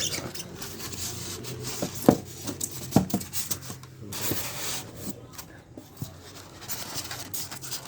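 Packaging rubbing and rustling as a hot air gun rework station is handled and taken out of its box, with scattered clicks and two sharp knocks about two and three seconds in.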